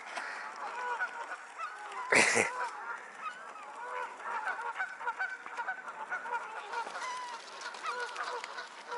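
A group of swans calling, many short overlapping calls rising and falling in pitch, with one louder burst close by about two seconds in.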